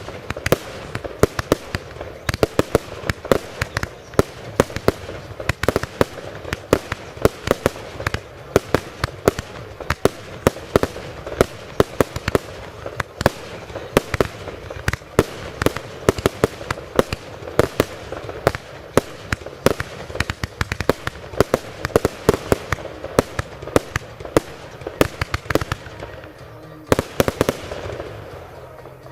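Consumer firework shooting off a rapid, continuous series of sharp bangs, several a second, with a final cluster of reports near the end before it stops.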